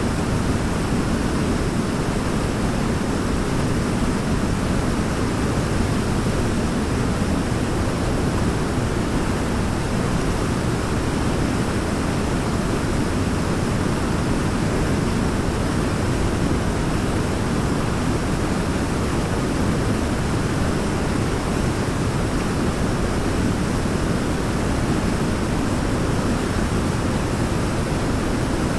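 Waterfall: water pouring down in a steady, even rush, deepest and strongest in its low rumble, with no change.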